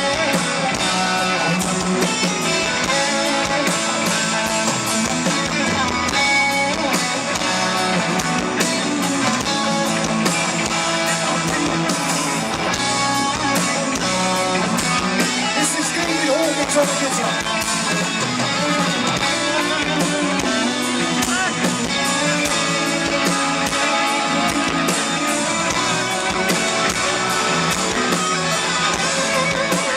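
Hard rock band playing live, with guitars to the fore, steady and loud.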